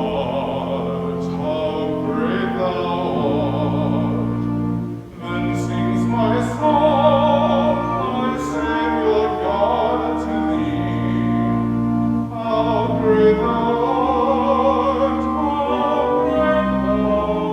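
Classical-style sung music: a voice singing with vibrato over held, sustained accompaniment, with a short break between phrases about five seconds in.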